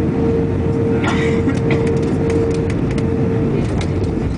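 Airbus A321 airliner's steady low rumble of engines and airflow, with a steady hum running through it. Light rattles and clicks come in about a second in.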